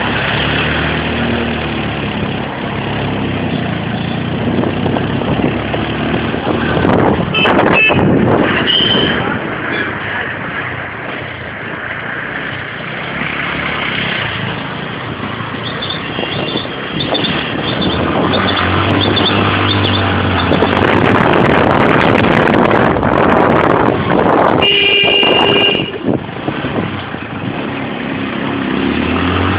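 Steady motor-vehicle and road noise while riding, with vehicle horns honking: briefly about seven to nine seconds in, and for about a second near twenty-five seconds.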